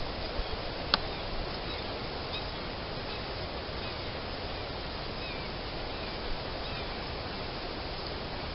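Steady outdoor background hiss with a few faint, short bird chirps scattered through it and one sharp click about a second in.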